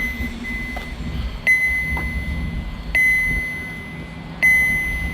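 Electronic beeping: a steady high tone about a second long, repeating every second and a half or so, over a low rumble. It is a low-battery warning from the recording device, which is running out of power.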